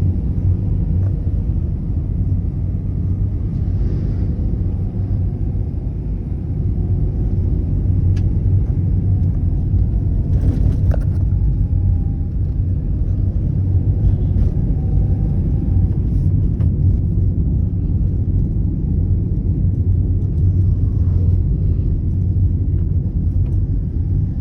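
A car being driven: a steady low rumble of engine and road noise, with a few faint ticks along the way.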